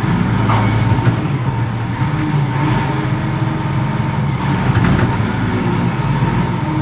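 Reach stacker's diesel engine running steadily with a low hum, with a few faint clicks along the way.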